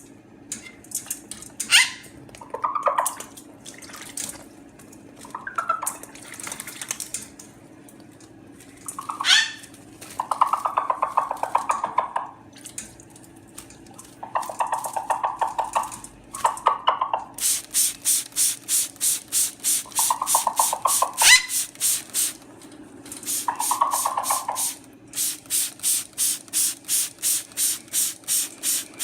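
Hand spray bottle pumped in quick, even squirts, about two to three a second, misting a Moluccan cockatoo. This starts partway through and pauses once briefly. Before it come several short buzzy bursts of sound.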